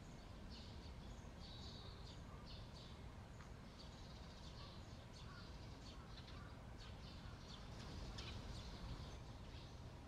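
Small birds calling: many short, high-pitched chirps in quick succession, faint over a steady low rumble.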